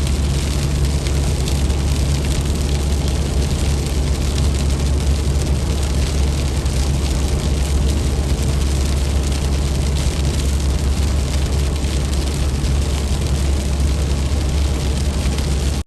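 Steady low rumble with an even hiss from a moving car: road and wind noise.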